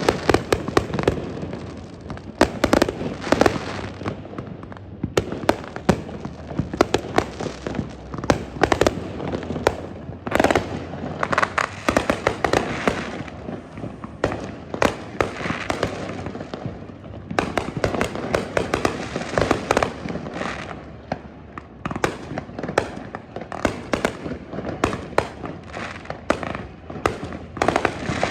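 Aerial fireworks going off in quick succession: sharp bangs mixed with long stretches of crackling, many bursts a second at the height of the volleys.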